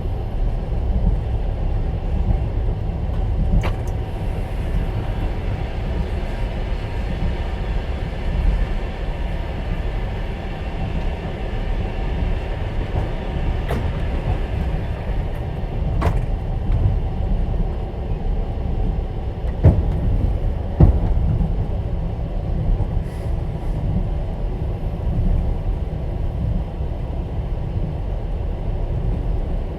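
Moving passenger train heard from inside an open-plan sleeper carriage: a steady low rumble of wheels and running gear with a few sharp, irregular knocks. The two loudest knocks come about two-thirds of the way through.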